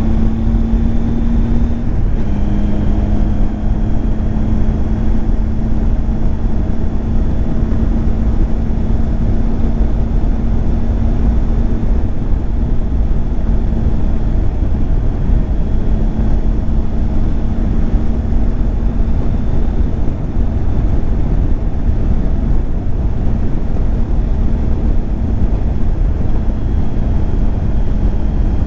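Triumph Tiger 800 XCX's inline three-cylinder engine running at a steady cruise, with a short break in its note about two seconds in, under heavy wind noise on the microphone.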